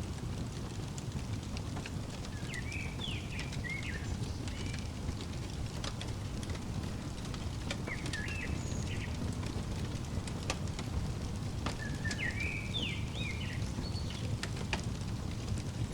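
Fireplace burning with a steady low rumble and scattered crackles and pops, while a small songbird sings three short chirping phrases.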